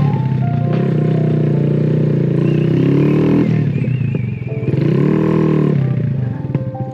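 Honda Grom's small single-cylinder engine being revved repeatedly while ridden, its pitch rising and falling with the throttle. It drops off briefly about four and a half seconds in and again near six seconds.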